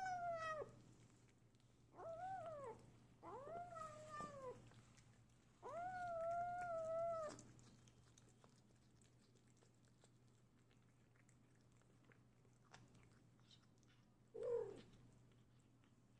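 Young kitten yowling over its food: four drawn-out, high-pitched calls in the first seven seconds, the last and longest held steady for nearly two seconds, then one short falling call near the end. This is the food-guarding warning of a kitten with a piece of chicken breast.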